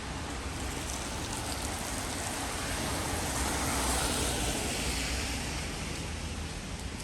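A car passing on a wet road: its tyre hiss swells to a peak about halfway through, then fades, over a steady hiss of rain.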